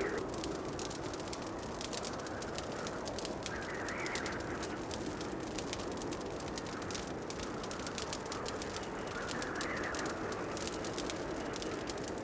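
Wood fire crackling in a fireplace: many small, irregular pops over a steady low hiss, with a soft swell of noise now and then.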